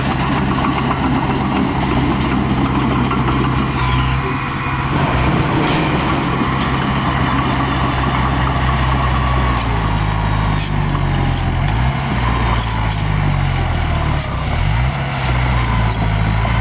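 Small bulldozer's diesel engine running steadily, its pitch dipping and rising a few times in the second half as the load changes, with scattered sharp clicks over it.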